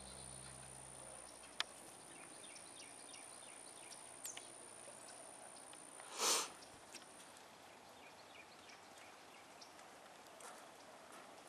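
Faint outdoor riverside ambience with scattered short, high chirps of small birds. A faint steady high whine stops about seven seconds in, and a short rush of noise about six seconds in is the loudest sound. The tail of guitar music fades out at the very start.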